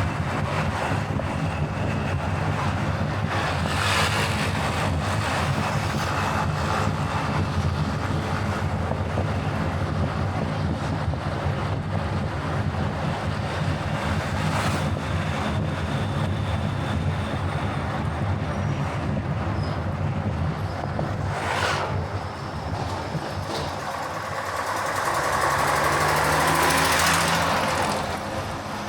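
Car driving along a road: steady engine and tyre noise, swelling louder for a few seconds near the end.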